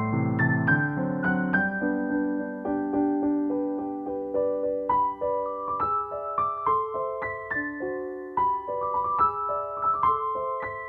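Background music: a soft solo piano melody played in single struck notes over held lower notes.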